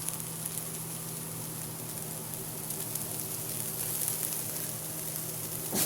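Chicken pieces frying in oil in a pan, a steady sizzle with fine crackling, at the stage where the pieces have cooked down dry. A faint steady hum runs underneath.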